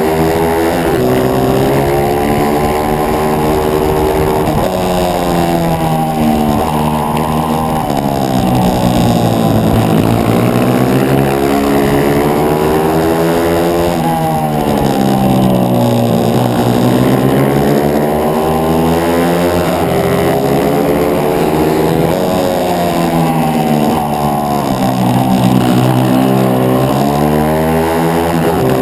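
A 140 cc single-cylinder pit bike engine heard on board at race pace. It revs up along the straights, then drops sharply in pitch into the corners before climbing again, several times over.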